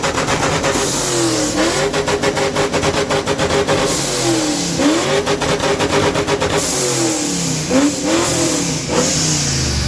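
A car engine revved hard through its exhaust: it climbs and holds at high revs for a couple of seconds, drops, climbs and holds again, then gives a few shorter blips near the end.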